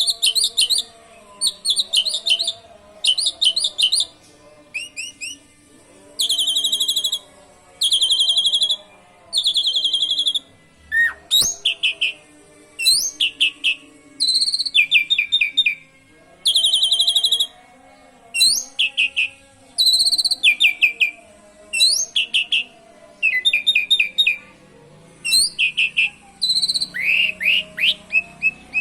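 Asian pied starling (jalak suren) singing canary-like song: a long series of rapid, high trilled phrases, each lasting about a second, repeated with short pauses.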